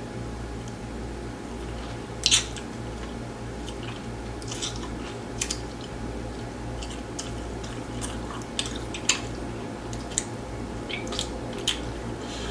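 Close-up eating sounds: a person biting and chewing grilled chicken, with short wet mouth clicks scattered through, the loudest about two seconds in, over a steady low hum.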